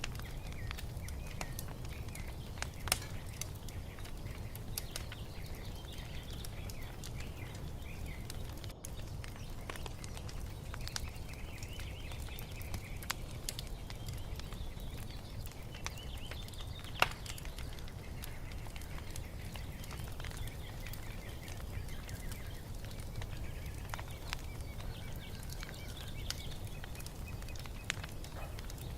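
Wood fire crackling in a fireplace: a steady low rumble with scattered sharp pops, the loudest about three seconds in and about seventeen seconds in. Birds chirp faintly in the background.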